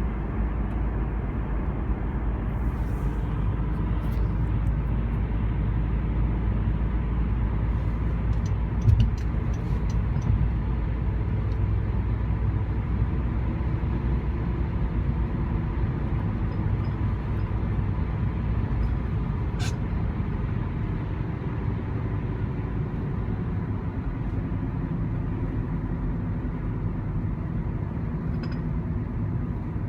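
2013 Honda Civic driving, heard from inside the cabin: steady road and tyre rumble with a droning hum whose pitch drifts, and a brief bump about nine seconds in. The noise comes on deceleration after the front passenger wheel struck a curb, and the owner wonders whether the wheel bearing is damaged.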